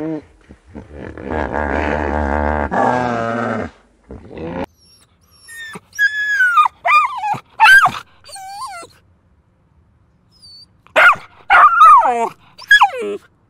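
Animal calls: a low, rough growl-like sound for a couple of seconds near the start, then two runs of short, high cries that slide up and down in pitch, like yelps or whimpers.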